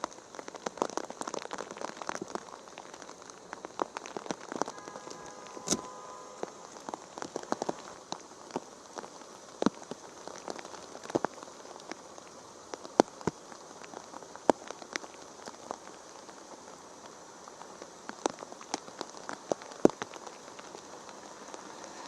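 Rain falling, with large drops striking close to the microphone as sharp, irregular taps that come thickly at first and more sparsely later. A brief steady tone sounds about five seconds in.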